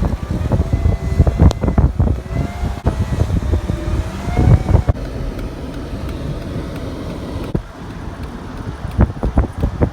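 Vehicle engines running hard under load as Jeeps tow a fully loaded semi truck uphill, with a deep, uneven rumble and a faint whine that rises slowly in pitch during the first half.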